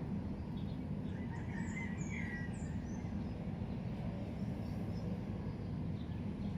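Birds chirping a few times over a steady low rumble of background noise.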